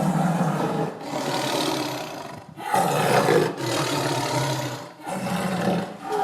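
Tiger roaring: a series of about five rough roars, each a second or so long, with brief breaks between them.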